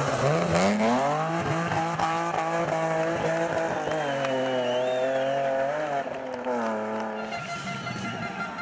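BMW E36 3 Series rally car's engine coming off the throttle into a hairpin, then revving up hard as it drives out of the slide and pulls away. The revs climb over the first second or so and hold high. The pitch drops at a gear change about six seconds in, and then the sound fades.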